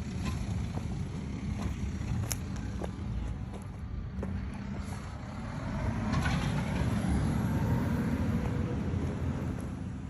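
A vehicle's low engine rumble, growing louder about six seconds in, with a few sharp knocks.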